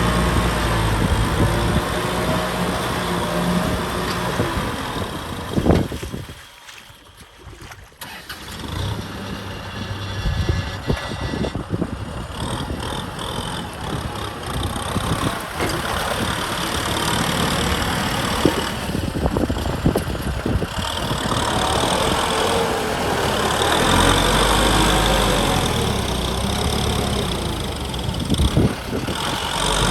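Kubota M6040 tractor's four-cylinder diesel engine running; the sound drops away sharply for about two seconds some six seconds in, then comes back and runs on steadily.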